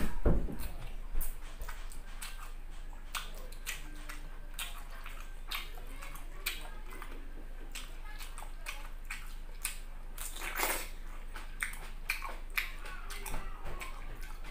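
Close-up wet chewing and lip smacking of rice and squid eaten by hand, with many small sharp mouth clicks. In the second half he bites into a whole fresh tomato.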